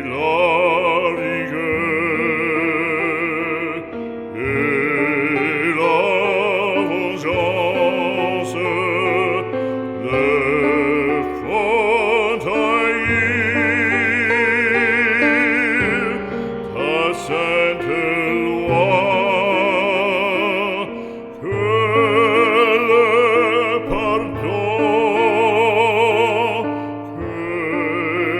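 Classical operatic singing: a voice with a wide, even vibrato holds long notes over a sustained low accompaniment, in phrases broken by short pauses.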